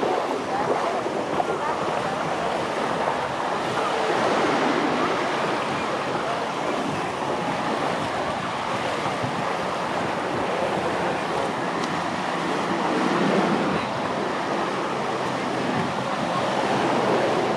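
Surf washing onto a sandy beach: waves breaking and running up the sand in a steady wash that swells a little a few times.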